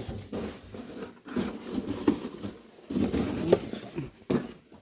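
Paper and pieces of wood rustling and knocking as they are handled and laid in a fireplace, irregular and uneven, with a sharper knock near the end.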